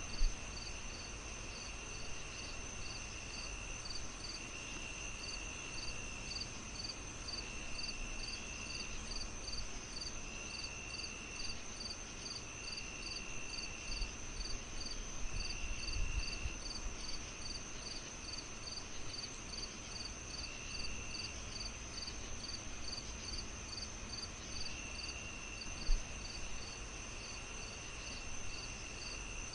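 Crickets chirping steadily: a continuous high trill, regular short chirps a little under two a second, and a lower trill that comes and goes every couple of seconds. Beneath them a fireplace crackles with a low hiss and an occasional sharp pop, one just after the start and one near the end.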